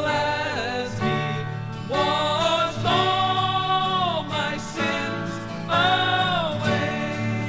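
1970s gospel folk-rock band playing: voices sing over guitar and a steady bass line, holding two long notes.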